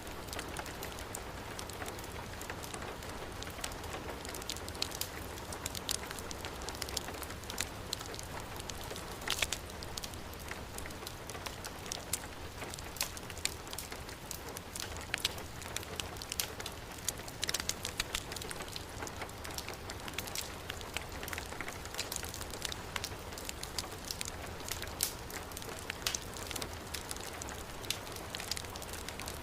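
Heavy rain falling in a steady hiss, mixed with a crackling wood fire; many sharp little pops and crackles sit on top of the even rain noise.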